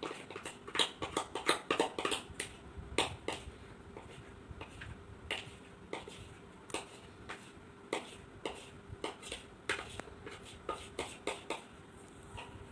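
Light, irregular clicks and taps of a spoon against a bowl and cake mould as cake batter is moved into it, over a faint steady hum.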